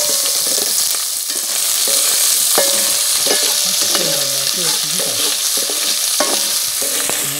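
Food sizzling as it fries in a pan: a steady loud hiss, with scattered clicks of a utensil stirring it.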